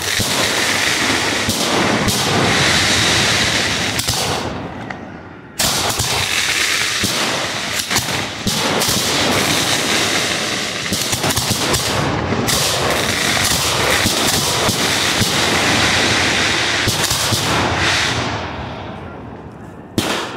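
Fireworks firing from ground racks at close range: a dense, rapid run of crackling pops and bangs over a steady hiss. The firing dies away about four and a half seconds in, starts again abruptly about a second later, and tails off near the end.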